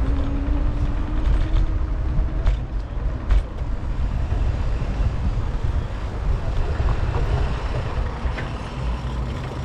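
City street noise heard from a moving bicycle: a steady low rumble of road and wind noise with traffic, a faint steady hum for the first couple of seconds and a few sharp clicks about two and a half and three and a half seconds in.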